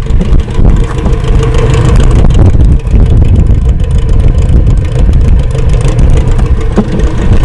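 Toyota pickup's freshly swapped 22R four-cylinder engine running, a loud steady low rumble with a faint steady hum above it; it sounds sweet, a healthy-running rebuilt engine.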